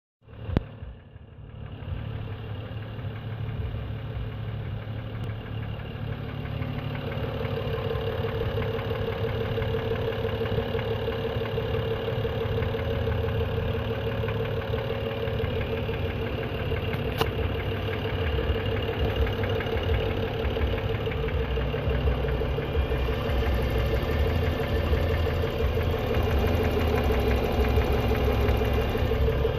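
2011 BMW 335xi's turbocharged inline-six idling cold, with a fast steady clicking over the engine sound, a noise the car makes only at start-up and loses once warm. One sharp loud sound comes about half a second in.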